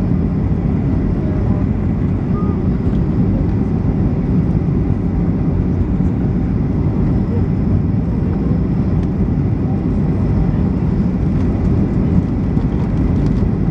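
Cabin noise inside a Boeing 737-800 during its landing: a steady, deep rush of jet engines and airflow.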